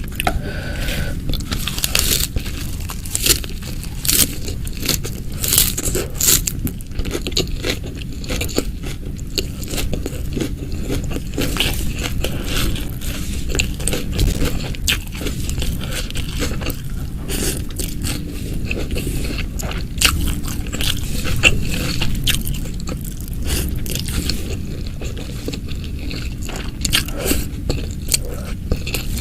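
Close-miked eating sounds: biting and chewing crispy fried chicken, with many irregular sharp crunches of the coating.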